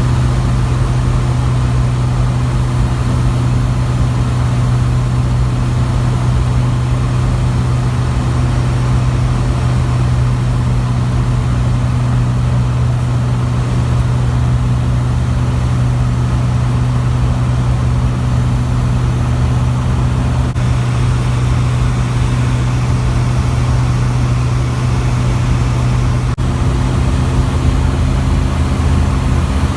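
Zodiac CH 601 light aircraft's piston engine and propeller droning steadily in flight, heard from inside the cockpit.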